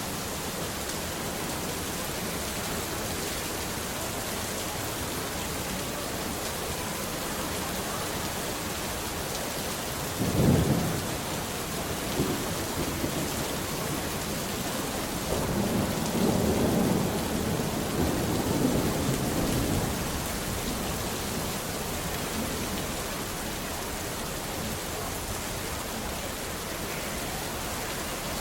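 Steady rain falling, with a sharp clap of thunder about ten seconds in and a longer rumble of thunder a few seconds later.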